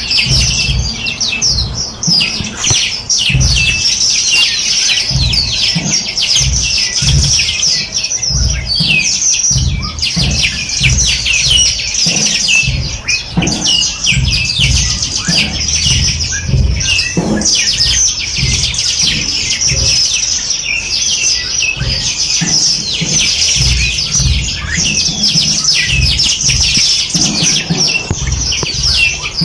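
A dense chorus of many small songbirds chirping and trilling continuously, with rapid high-pitched notes overlapping throughout. An irregular low rumble runs underneath.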